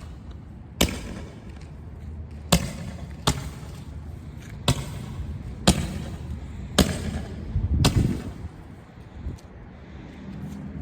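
A firework going off at ground level with a series of about seven sharp bangs, roughly a second apart and irregular, over the first eight seconds.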